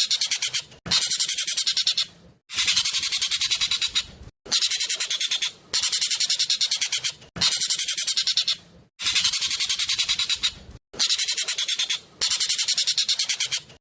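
Racket-tailed treepie (jovin, ekek keling) calling loudly in rapid, tightly packed rattling strings of high notes, each string about a second and a half long with a short break between, about seven in a row.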